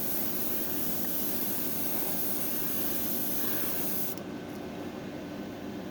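Airbrush spraying automotive clear coat at low air pressure: a steady hiss of air and paint that cuts off suddenly about four seconds in as the trigger is released. A steady low hum carries on underneath.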